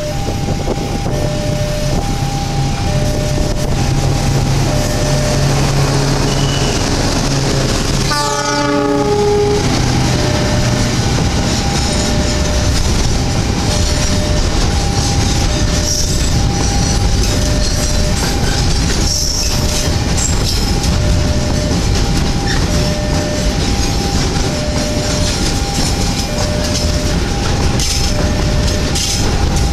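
A passenger train and then a long container freight train rolling past at close range, a steady rumble with wheels clattering on the rails. Through it a level-crossing warning alarm repeats a two-note chime. About eight seconds in, a short falling series of tones cuts through.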